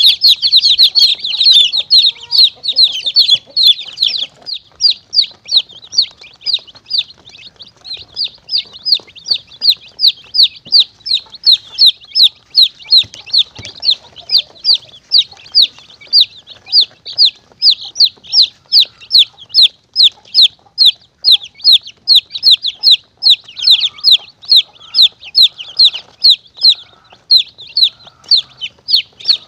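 Baby chicks peeping: short, high cheeps that fall in pitch, about three a second, crowded and overlapping in the first few seconds. This is the chick call played as a lure for monitor lizards and mongooses.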